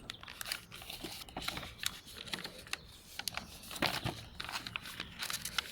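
Sheet of paper being creased and pinched by hand: irregular small crinkles and crackles, with a louder crackle near the middle.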